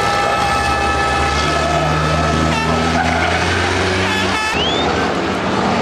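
Racing trucks' diesel engines running on the circuit, with a steady high tone over the engine note for the first three seconds and a sharp knock followed by a rising whine about four and a half seconds in.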